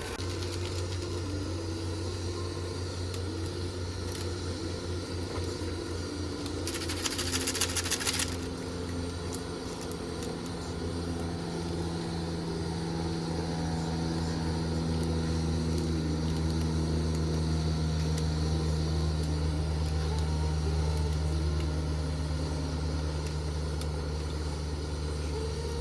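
A steady low engine hum, like a running vehicle, slowly growing a little louder, with a short hiss about seven seconds in.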